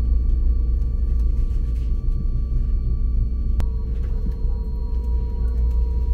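Running noise of a DB ICE 3 high-speed electric train heard from inside the passenger car: a heavy, steady low rumble with several steady whining tones above it. About three and a half seconds in there is a single sharp click, after which the whine settles at a slightly different pitch.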